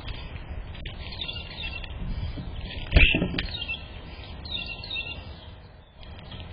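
Small birds chirping in short repeated bursts over a steady low rumble, with one loud sudden thump about halfway through.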